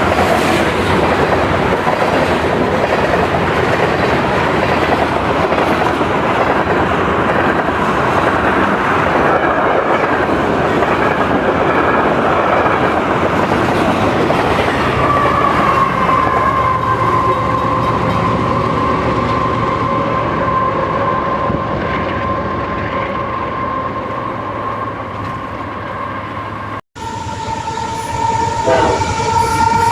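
Long freight train of tank wagons rolling past with steady rail clatter. About halfway in, a steady high pitched tone sets in and slowly fades. After an abrupt cut near the end, a locomotive horn sounds loudly.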